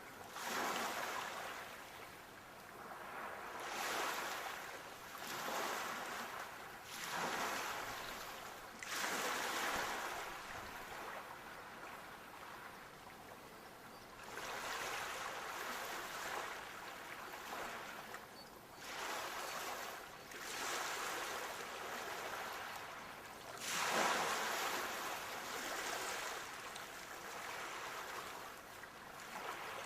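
Sea waves washing in, each wave a swell of hissing surf every two to three seconds with quieter spells between. The strongest wave comes about four-fifths of the way through.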